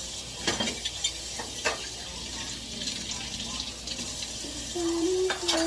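Tap water running into a sink during hand dishwashing, with a few sharp clinks of dishes knocking together.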